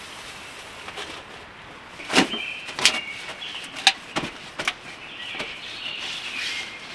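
A handful of sharp knocks and clicks, about five in under three seconds, with scratchy scraping around them, like hard objects being handled.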